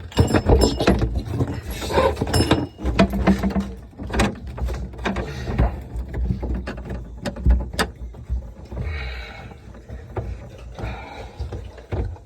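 Irregular knocks, clunks and scraping from hands-on work on a dishwasher being installed, over a low rumble.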